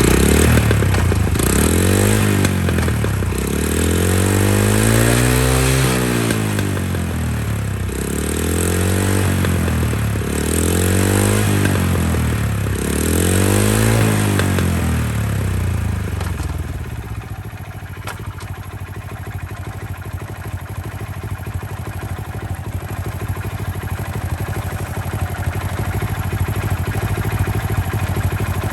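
Honda Little Cub (AA01) 49cc single-cylinder four-stroke engine revved up and let back down several times, each blip rising and falling over about two seconds. About halfway through it settles into a steady idle.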